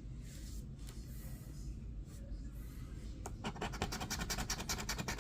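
Scratching the coating off a crossword scratch-off lottery ticket: faint at first, then from about three seconds in a quick run of short, even scratch strokes.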